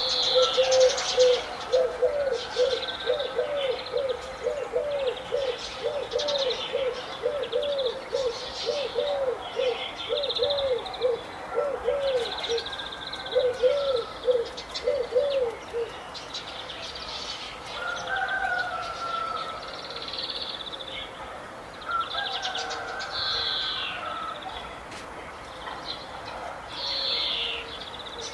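Several birds calling and chirping together. For about the first half, one bird repeats a low note about twice a second; after that, higher chirps and short whistles continue.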